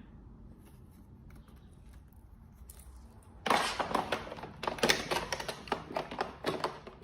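Quiet for the first few seconds, then from about three and a half seconds in a quick, irregular run of plastic clicks, knocks and rustling as the self-emptying station's dust bin is handled.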